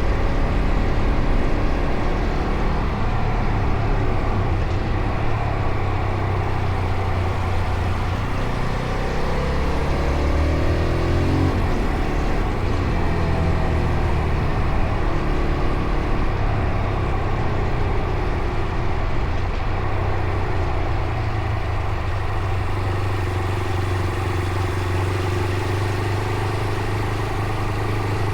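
Fantic Caballero Rally 500's single-cylinder four-stroke engine running while riding along, a steady engine note with the revs sweeping up and down about ten seconds in.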